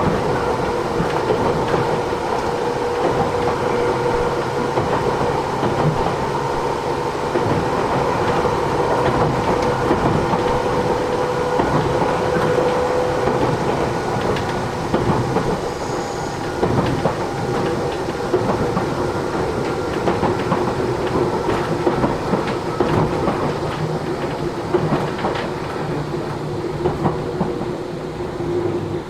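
Running sound heard from inside the cabin of a Matsumoto Electric Railway 3000 series electric train under way: steady rumble with wheels clicking over rail joints. A steady tone runs with it and fades out about halfway through.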